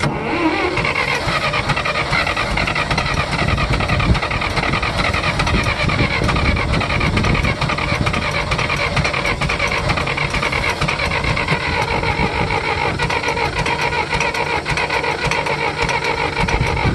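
1964 John Deere 1010 tractor's gasoline engine being cranked over by the starter in one long, steady crank without catching; the engine is flooded.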